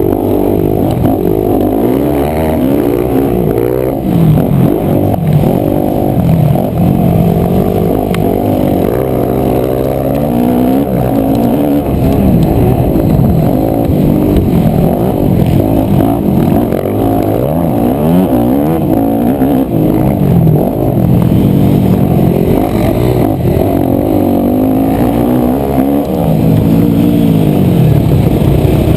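Yamaha YZ250F's 250 cc four-stroke single-cylinder engine being ridden on a motocross track, revving up and dropping back over and over as the throttle opens and closes.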